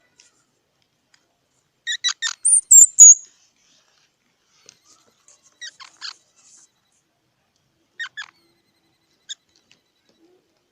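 Squirrel calling: a quick run of sharp, high chirps and squeaks about two seconds in, then a few shorter, fainter chirps spaced through the rest.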